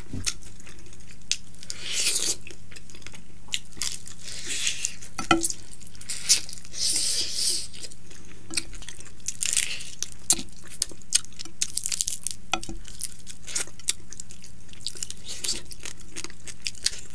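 A person chewing and crunching fried fish, with many short crackling and clicking mouth sounds in spells throughout, over a faint steady hum.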